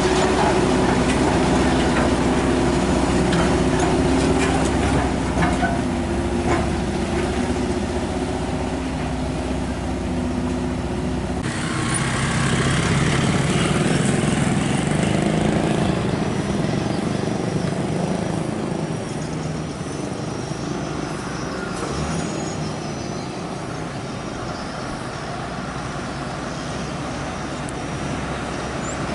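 Heavy truck engine running under road and traffic noise. About eleven seconds in, the sound changes abruptly to a broader rushing noise, which grows quieter from about eighteen seconds on.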